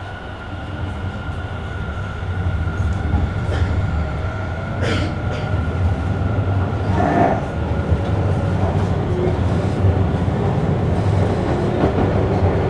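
Tobu electric commuter train running, heard from inside the car. The running noise grows over the first couple of seconds, there are two short clunks in the middle, and a motor whine slowly rises in pitch in the second half as the train gathers speed.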